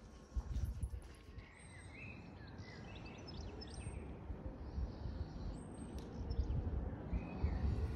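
Birds chirping in short calls, a few at a time, over a low, uneven rumble of outdoor background noise.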